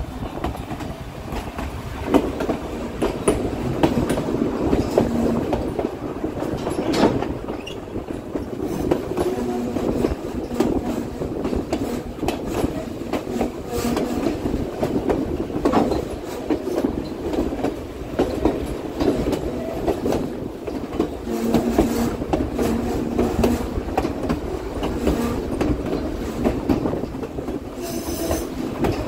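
White Pass & Yukon Route narrow-gauge passenger train rolling along the track: a steady rumble of wheels on the rails with irregular clattering knocks from the cars.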